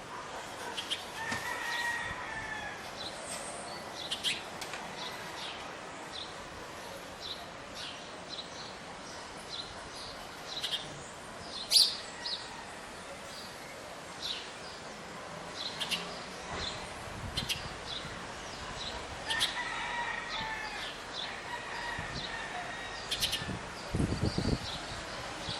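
Wild birds calling: many short high chirps scattered throughout, and a longer, lower call twice, about a second in and again about 19 seconds in. A single sharp, loud click stands out near the middle.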